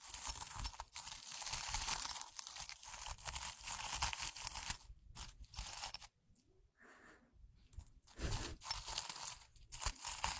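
Dried flower tea being handled and crushed close to the microphone, a dense dry crackling and rustling like walking on fallen autumn leaves. It dies down for a couple of seconds a little past the middle, then starts again.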